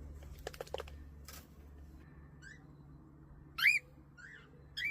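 A small pet bird giving a few short, arching chirps, the loudest about three and a half seconds in, with a few faint ticks in the first second.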